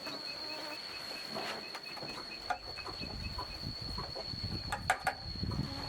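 Insects calling: a steady high-pitched drone, with a rapid even chirping of about five pulses a second that stops about halfway through. A few sharp knocks and some low rumbling noise come in the second half.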